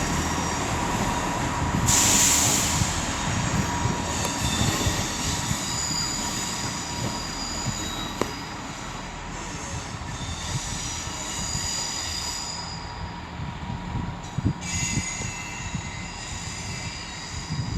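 A pair of Class 158 diesel multiple units pulling away, their wheels squealing in several high, steady tones that fade and come back over the low rumble of the running train. A short burst of hiss comes about two seconds in.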